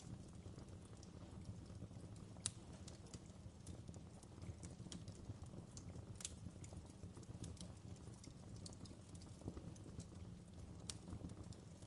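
Faint wood fire crackling in a fireplace: irregular sharp pops and snaps over a steady low rumble, with a few louder pops.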